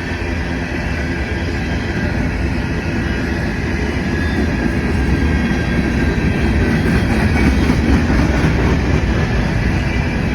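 Canadian National potash freight train rolling past: a steady rumble and rattle of the cars' wheels on the rails, growing somewhat louder past the middle.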